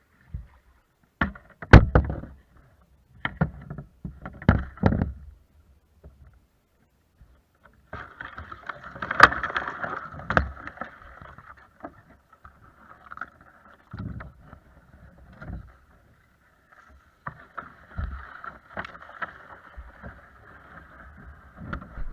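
Sounds of a kayak on the water: a series of hollow knocks and thumps against the hull in the first few seconds, then a rough swishing of water with a few more knocks.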